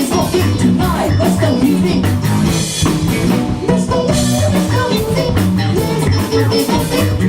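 Live band playing an upbeat song: guitar and drum kit over a repeating bass line.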